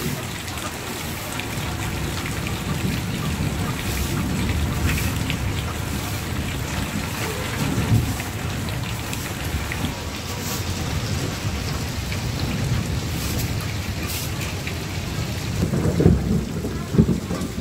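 Heavy rain pouring down, with runoff from the roof splashing into a metal basin already full of water, over a steady low rumble. A couple of louder thumps come near the end.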